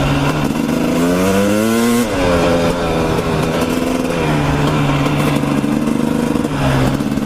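Dirt bike engine accelerating: it revs up for about two seconds, drops sharply in pitch at a gear change, then holds a steady pitch, easing off briefly near the end.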